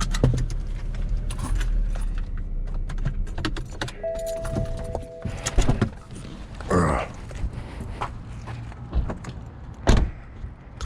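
A car engine idling with a steady low hum while keys jangle and things click. The idle stops about halfway through. A short tone sounds just before it stops, and there is a single knock near the end.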